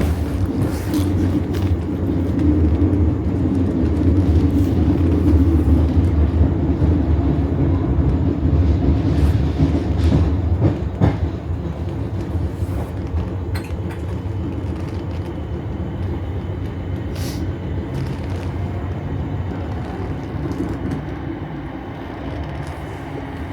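Suburban electric train running on the rails, heard from on board: a steady low rumble with scattered clicks from the wheels. It is louder in the first half and eases off after about halfway.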